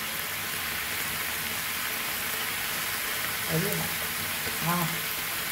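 Chicken gizzards frying in a thick red Rechaedo masala in a non-stick pan, a steady sizzle and bubbling. Two short hums of a voice come about three and a half and four and a half seconds in.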